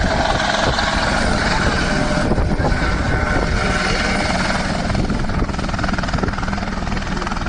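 Aircraft in flight: a loud, steady engine drone with a fast, even beating pulse.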